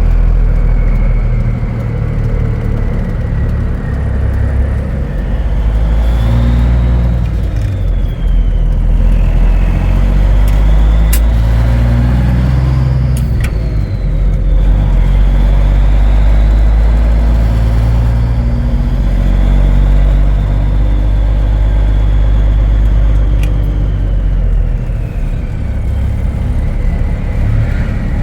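Cummins diesel engine of a 1980s Peterbilt 359 truck running under load as the bobtail drives. Its pitch climbs and drops back several times, as it is taken up through the gears, and a fainter high whine rises and falls with it.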